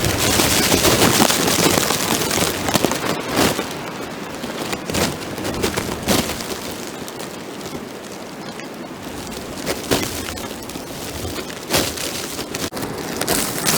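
Plastic bag wrapped over the camera crinkling and rubbing against the microphone: a continuous crackling hiss with scattered sharper crackles and a few louder clicks.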